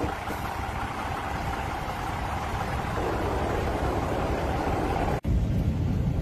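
A diesel railcar running, heard from its open window as a steady rumble and rush of noise. It cuts off sharply about five seconds in and gives way to a low vehicle engine rumble.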